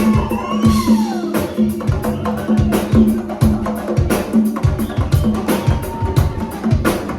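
Live band music with a quick, steady percussion beat, hand drums among it, over a held bass note; a falling vocal whoop near the start and another around six seconds in.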